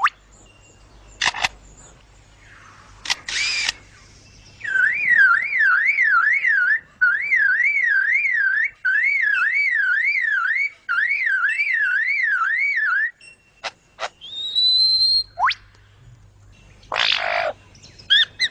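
A lyrebird singing its mimicry. A few sharp clicks come first, then a long warbling call that rises and falls about twice a second, like an alarm, in several runs for about eight seconds. After it come a rising whistle, a falling whistle and a rough burst near the end.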